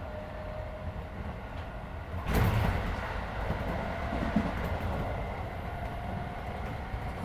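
Running sound heard inside a Keisei 3400 series electric train car at speed: steady rumble of wheels on rail with a faint motor whine that rises slightly in pitch. About two seconds in there is a sudden louder rush of noise, after which the running sound stays a little louder.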